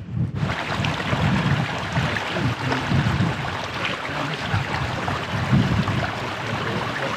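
Wind blowing across the microphone: a steady rushing with uneven low rumbling gusts.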